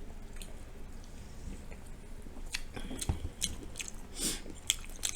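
A person chewing a mouthful of General Tso's cauliflower, with a handful of sharp, wet clicks and crunches in the second half.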